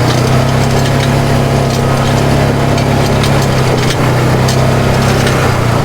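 Polaris RZR 570 side-by-side's single-cylinder engine running steadily at low speed, with scattered clicks and rattles as it crawls over a rough, whooped-out dirt track.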